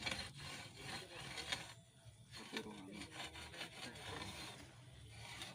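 Faint, irregular scraping and grating of a hand-turned steel well-drilling pipe grinding its bit through the soil, with a brief lull about two seconds in.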